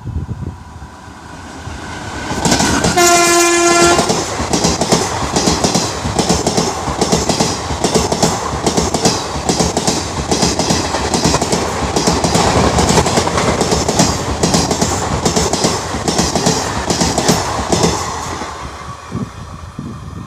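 Indian Railways passenger train passing at speed: the locomotive sounds one horn blast of about a second as it approaches, then a long run of fast wheel clatter over the rail joints, fading away near the end.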